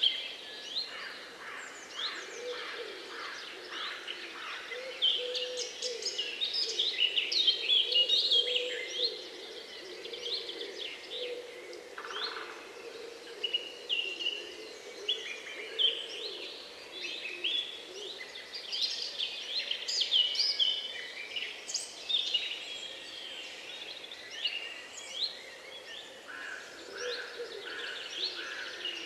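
Several songbirds singing and chirping at once in a dense chorus of quick high notes and trills, with a lower call repeating underneath.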